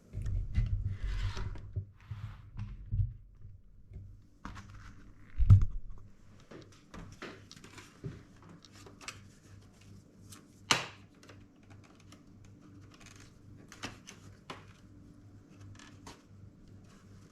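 Hands working on a laptop during disassembly: scattered clicks and taps of plastic and metal parts with some rubbing, a heavy thump about five and a half seconds in and a sharp click near eleven seconds.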